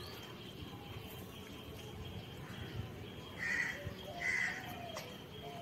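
Two short, harsh bird calls, about three and a half and four and a half seconds in, over faint background noise.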